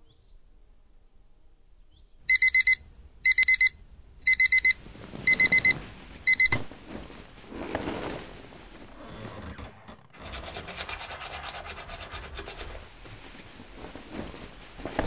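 A wake-up alarm beeping in clusters of quick high beeps, about one cluster a second, five times, cut off by a click as it is switched off. Bedding rustles after that, and later a steady scrubbing hiss follows.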